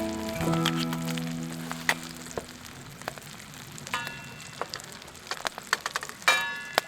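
Beef steak sizzling over a campfire, with scattered crackles. A metal clink rings out about four seconds in, and a louder one comes near the end. Background music fades out in the first couple of seconds.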